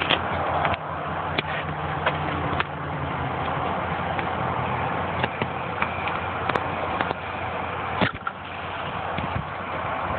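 A Subaru EJ22 flat-four engine running steadily, with scattered clicks and knocks from fingers handling the microphone, the loudest about 8 seconds in.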